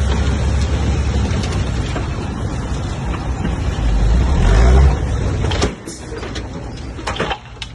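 Bulldozer's diesel engine running hard, its pitch rising about four seconds in before it drops off sharply, followed by a few sharp knocks near the end.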